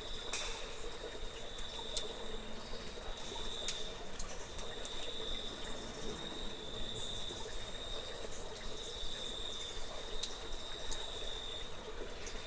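Insects trilling in a steady high tone that swells and fades every second or two, over a low steady hiss of trickling water, with scattered sharp clicks.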